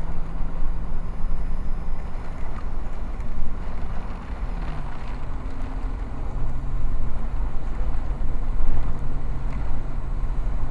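Vehicle engine running steadily under road and wind noise, heard from inside the chase vehicle. The engine note drops a step about halfway through.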